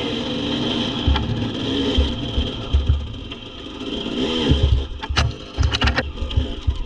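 Dirt bike engine running, with one rev that rises and falls about four seconds in. Low irregular thumps, likely wind buffeting the microphone, and a few sharp clicks come near the end.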